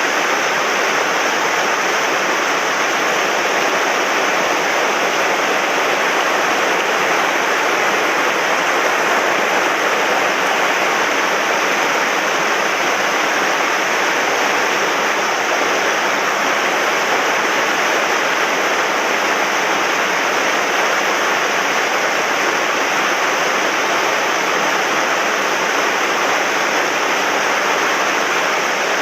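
Swollen mountain stream rushing loud and steady over rocks, a constant roar of fast water in spate after heavy rain.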